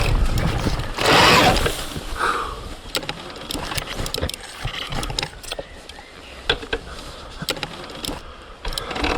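Surron Ultra Bee electric dirt bike on a hard enduro climb. The motor noise drops off just after the start, following a short loud rush of noise about a second in. For several seconds after that there are only scattered sharp clicks and knocks, and then the motor pulls again right at the end.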